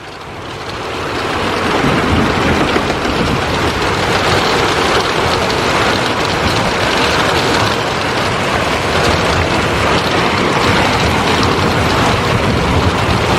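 Heavy thunderstorm downpour: rain pouring down in a steady loud rush that swells over the first couple of seconds.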